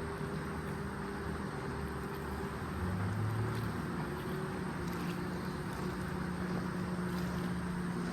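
An engine running steadily, its low hum shifting slightly in pitch.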